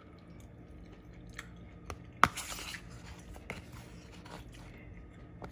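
A person chewing a mouthful of pasta and vegetables, with a few light clicks scattered through it, the sharpest about two seconds in.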